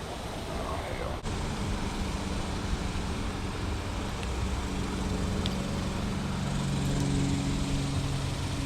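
A motor vehicle's engine running steadily, a low hum that sets in about a second and a half in and holds, over outdoor background noise.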